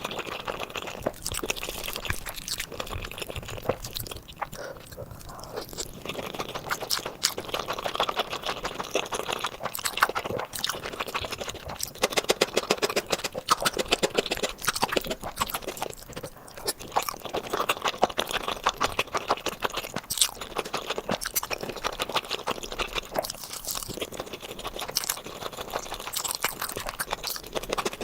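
Close-miked chewing and crunching of food, a dense run of small wet and crisp clicks that goes on without a break.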